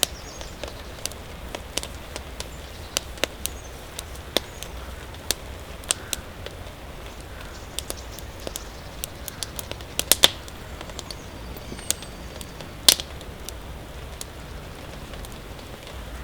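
Campfire crackling: irregular sharp pops over a steady background hiss, with a couple of louder pops around ten and thirteen seconds in. Faint bird chirps in the background.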